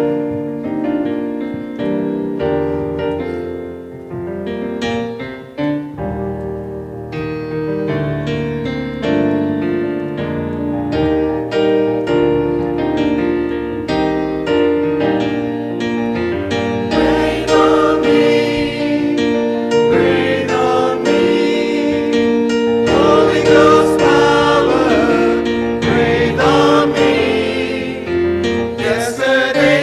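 Gospel music: keyboard chords, joined by a choir singing from a little past halfway.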